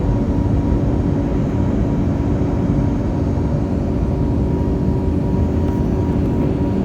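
Airliner's jet engines running at takeoff power, heard from inside the passenger cabin as a steady, loud rumbling noise with a faint steady hum.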